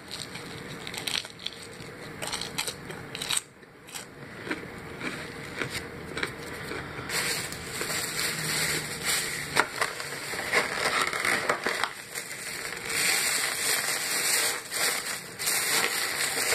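Close-up crunching and chewing of crispy fried-chicken breading: irregular crisp crackles that grow denser and louder about halfway through.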